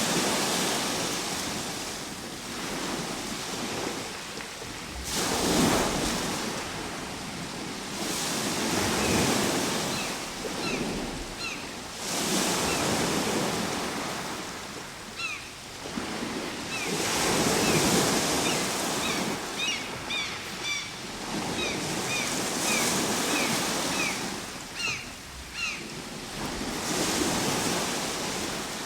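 Ocean surf, waves breaking and washing up the shore, swelling and falling away about every four to five seconds. Short, high chirps come and go through the middle and later part.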